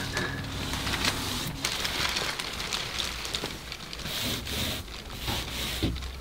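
A paint roller loaded with undercoat being rolled back and forth over a wooden wall, giving a sticky crackling hiss that swells and fades with each stroke.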